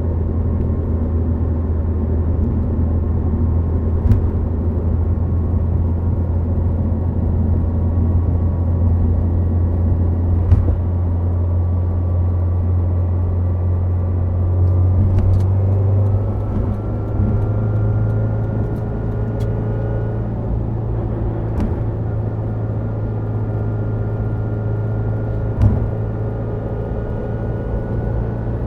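Subaru WRX STI Spec C's turbocharged flat-four, fitted with an A-RM aftermarket exhaust, running at a steady cruise on the expressway: a low steady drone with tyre and road noise. The engine note steps slightly higher about halfway through, and a few single sharp clicks come through.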